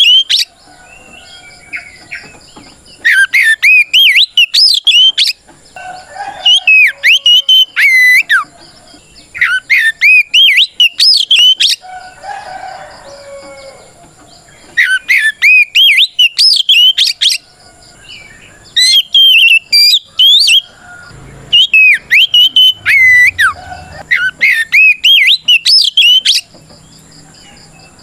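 Oriental magpie-robin (kacer) singing its loud fighting song: rapid whistled phrases of sweeping notes in bursts of a second or two, broken by short pauses. This is the challenging 'ngeplong' song a male uses to call out a rival.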